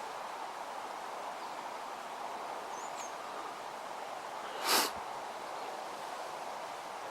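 Steady outdoor rustling ambience with a faint high chirp about three seconds in, and one short, harsh, loud noise a little past halfway.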